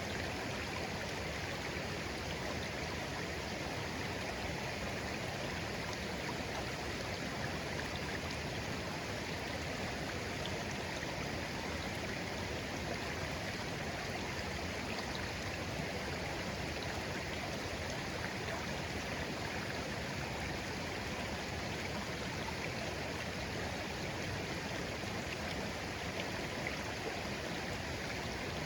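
Shallow stream flowing steadily over stones, an even babbling rush of water.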